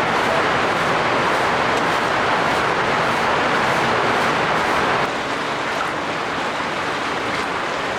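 Steady heavy rain, an even dense hiss that drops a little in level about five seconds in.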